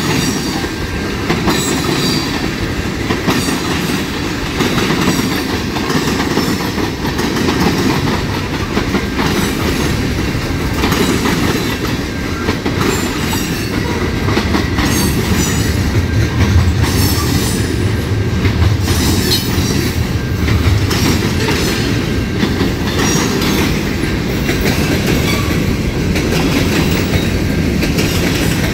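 Railway cars rolling past steadily, their wheels clicking over the rail joints in a continuous run. A low drone swells in for several seconds around the middle.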